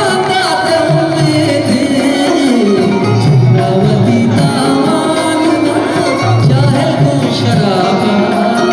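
A song: a voice singing a wavering melodic line over instrumental backing, with bass notes that repeat in a regular pattern.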